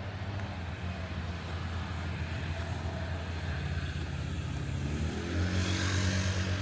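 A car's engine running close by, growing louder as it approaches, with tyre hiss rising sharply near the end.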